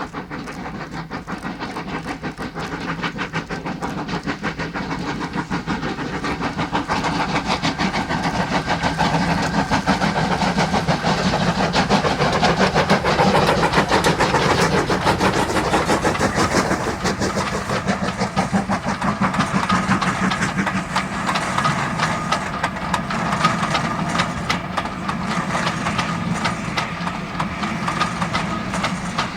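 Two steam locomotives double-heading a train, working steam with rapid, overlapping exhaust beats. The sound grows louder to a peak about halfway through as the train passes, then fades.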